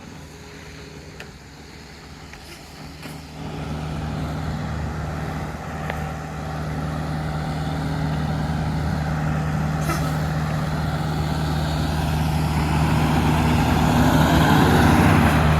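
Road traffic, with a vehicle engine running at a steady low hum that comes in about three and a half seconds in and grows louder.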